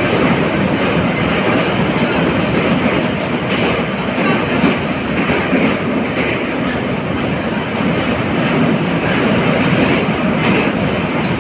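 Steady loud running noise heard from inside an 81-717.5 metro car travelling between stations, with faint clicks from the wheels.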